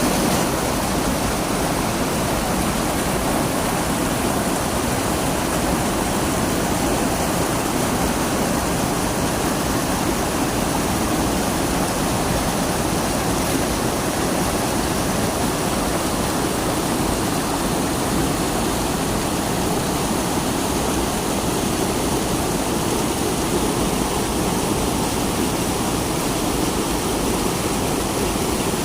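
Waterfall: falling water making a steady, dense rush.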